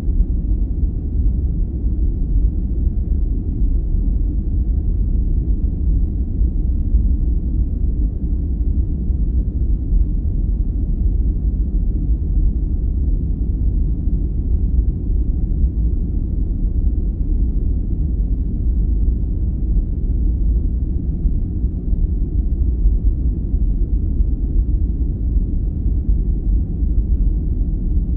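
Steady, deep rumbling noise, even and unchanging, with almost no high hiss: a sleep-inducing noise track of the brown-noise kind.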